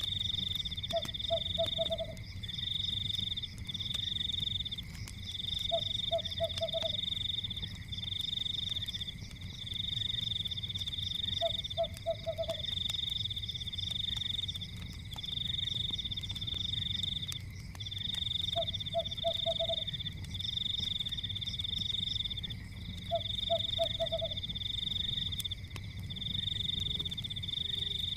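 Night chorus of frogs trilling in repeated bouts of about two seconds each, with a lower four-note croak about every five or six seconds. Underneath is the low rumble of a fire with scattered small crackles.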